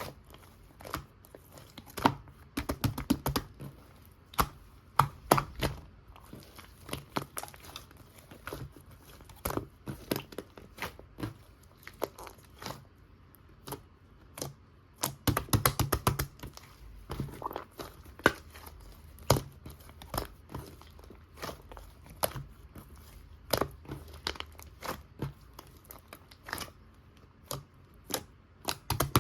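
Hands squishing and pressing red cream slime mixed with strawberry-jam slime, making irregular sticky clicks and pops, with two stretches of quick crackling, about three seconds in and again about halfway.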